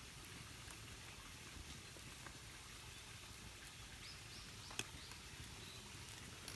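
Faint outdoor ambience with scattered light ticks, a brief run of high chirps about four seconds in, and one sharper tap shortly after.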